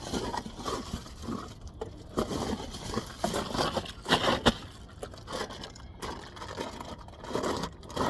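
Packaging crinkling and rustling as a new wheel bearing is unwrapped, with a couple of sharp knocks about four seconds in.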